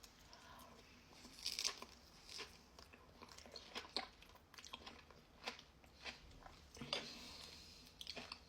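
Chewing of a chocolate-dipped strawberry coated in crunchy pistachio kataifi, with faint, irregular crunches and wet mouth clicks every half second to second.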